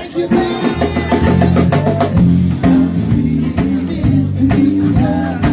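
Live band playing with drum kit and bass guitar, a steady beat of drum hits over held bass notes, picking up right after a brief lull.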